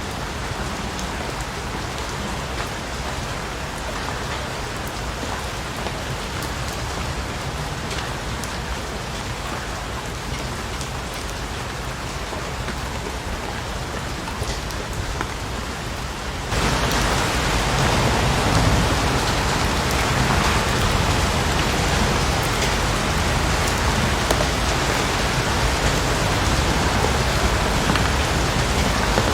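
Steady rain falling on a surface, a dense hiss with individual drops ticking through it. A little over halfway through it abruptly becomes louder and brighter.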